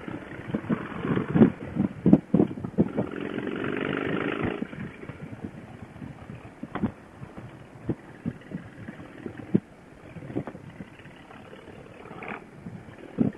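Motorcycle engine running while riding, with wind buffeting the microphone, heard through a Bluetooth helmet-intercom headset that cuts off the high end. About three to four and a half seconds in, the engine note is louder and rises slightly, as the bike accelerates.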